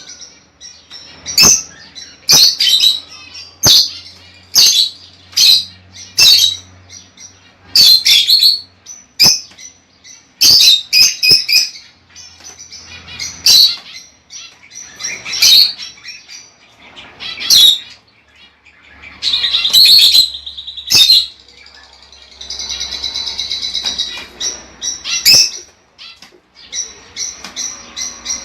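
Lovebirds calling: loud, sharp, shrill chirps in irregular bursts, with a longer stretch of continuous chattering about two-thirds of the way through.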